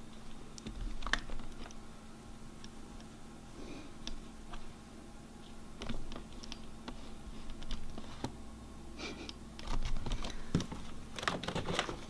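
Irregular small crunching clicks and scuffs of snow being moved and pressed under a person, thickest near the start, about six seconds in, and toward the end, over a faint steady hum.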